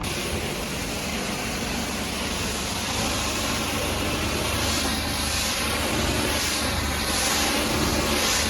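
High-pressure washer jet spraying onto a truck: a dense, steady hiss that starts abruptly, over a low hum. From about halfway through, the hiss swells and fades about once a second.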